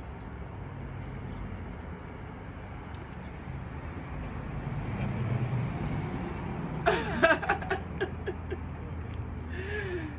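A motor vehicle passes on the street, its low rumble swelling in the middle and fading. About seven seconds in there is a short, loud burst of voice-like pitched sounds.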